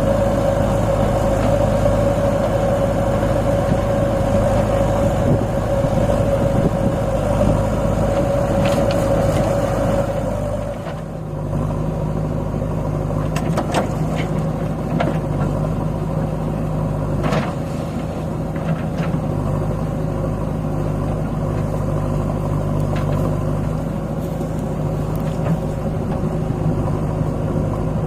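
Heavy diesel engine running steadily, with a strong high whine over it; about eleven seconds in the sound changes abruptly to a lower, steadier hum, with a few short knocks after.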